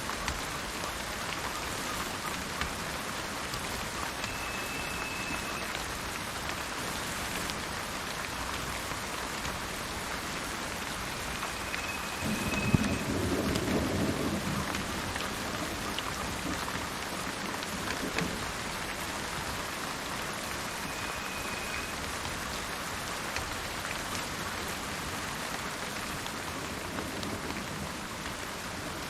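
Steady rain falling, with a roll of thunder that rumbles low for about three seconds near the middle. A faint, thin, high whistle comes three times over the rain.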